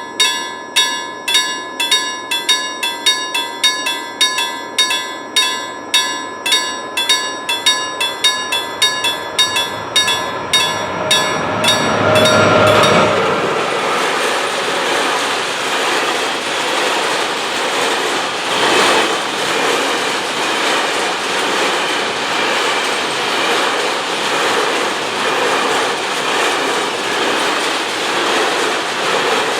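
Level crossing warning bell ringing about twice a second, drowned out about twelve seconds in as a freight train reaches the crossing with a loud rush. The train's wagons then pass steadily, with rumbling and clickety-clack of wheels over the rail joints.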